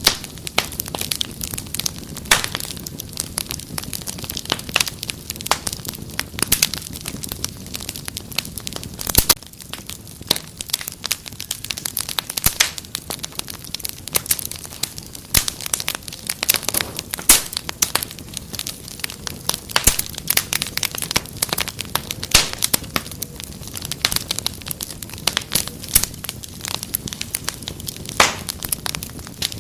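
Wood fire crackling, with frequent irregular sharp pops and snaps over a steady low rushing of the flames.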